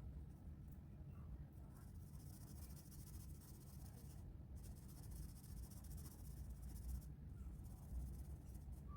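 Faint scratching of colouring strokes on paper. It starts about two seconds in, breaks briefly near the middle, and stops about seven seconds in, over a low steady room hum.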